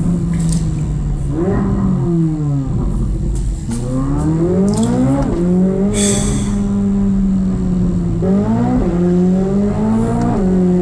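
Chevrolet Corvette C8 Z06's flat-plane-crank V8 with an aftermarket exhaust, accelerating. Its pitch climbs and then drops suddenly at upshifts several times, holding steady between. There is a brief sharp crack about six seconds in.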